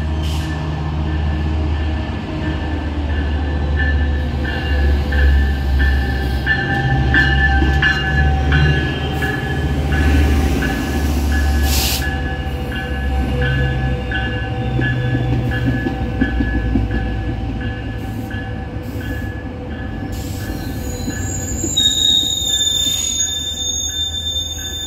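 Metrolink commuter train pulling into the station with a deep engine rumble and a bell ringing in a steady rhythm, with a sharp clank about halfway through. High brake squeal comes in near the end as the train slows to a stop.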